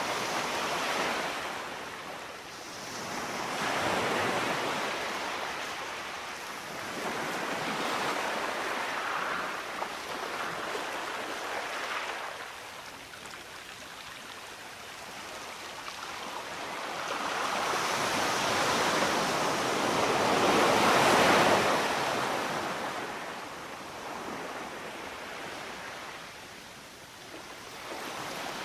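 Sea waves washing onto the shore, the rush of water swelling and ebbing every few seconds, with one longer, louder surge about two-thirds of the way through.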